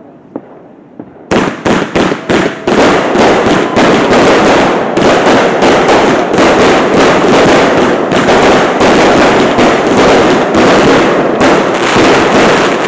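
Fireworks going off at close range: a few separate sharp bangs about a second in, then a long, dense run of rapid crackling reports, like a string of firecrackers.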